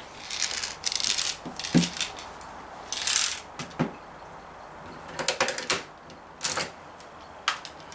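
Daisy Model 340 spring-piston BB pistol being worked by hand: a string of sharp metallic clicks and clacks with short scrapes as the slide is pulled back and pushed forward to cock and load it.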